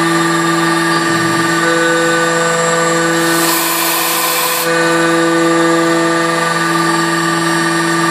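Mazak Impulse CNC milling machine running, its spindle giving a steady multi-tone whine while machining 385 brass plate. A burst of high hiss comes about three seconds in and lasts over a second.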